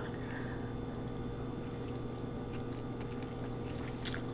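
Quiet chewing of lo mein noodles over a steady low hum, with one short sharp smack about four seconds in.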